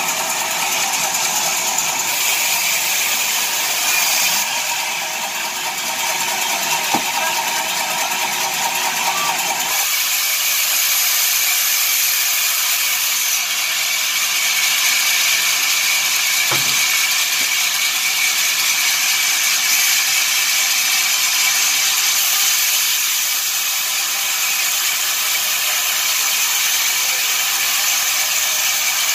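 Sawmill wood-cutting machinery running: a loud, steady, rattling mechanical noise that shifts abruptly in character several times.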